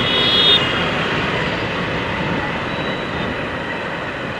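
Motorcycle on the move: steady wind and road rush on a helmet- or bike-mounted action camera, with a brief high squeal in the first half second.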